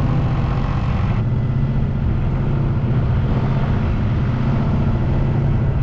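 A sailing yacht's auxiliary engine running steadily, motoring the boat along in a flat calm.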